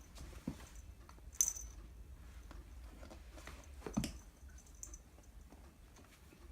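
Scattered light clicks and taps of a cat moving about on the floor, with a sharper click about a second and a half in and a soft thump about four seconds in.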